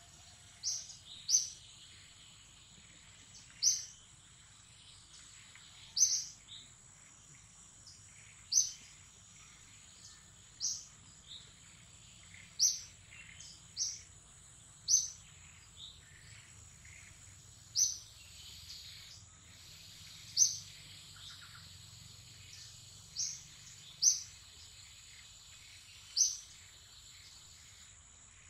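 A bird calling a short high chirp over and over, irregularly every one to three seconds, with a steady high-pitched tone underneath.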